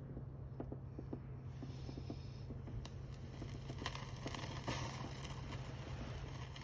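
Small wood fire crackling with scattered sharp pops, turning to a steady hiss from about four seconds in, over a steady low hum.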